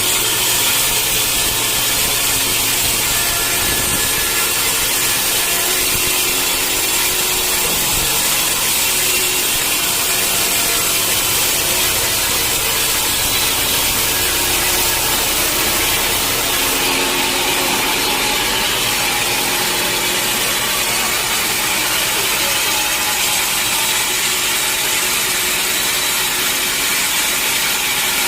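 Sawmill saw cutting through a mahogany log, a loud steady sawing noise that runs on without a break.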